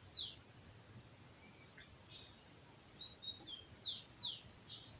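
A songbird singing. Its phrase is a couple of short level high notes followed by several quick notes that each drop in pitch. The tail of one phrase comes right at the start, and a full phrase comes again from about three seconds in.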